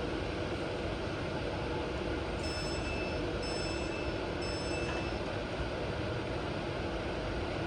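A train running steadily through a station, a continuous rumble of wheels and engine. Three short high beeps sound about a second apart midway through.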